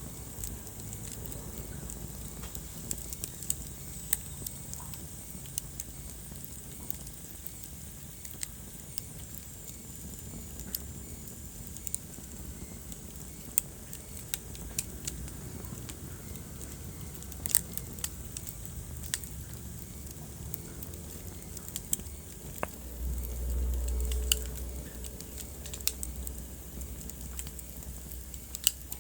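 Wood fire burning in a fireplace: a steady low rumble of flames with scattered sharp crackles and pops. About three-quarters of the way through, the rumble swells for a couple of seconds.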